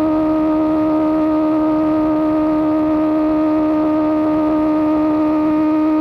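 Sportbike engine breathing through an Austin Racing GP1R exhaust, held at steady high revs while cruising, giving a constant high-pitched drone that neither rises nor falls.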